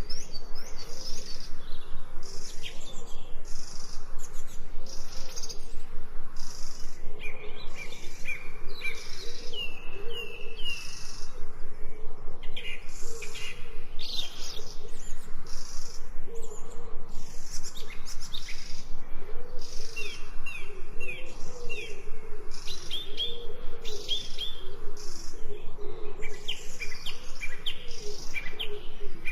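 Several birds chirping and singing together, with quick runs of high chirps, over a steady rhythm of high pulses about two a second and a low wavering call underneath.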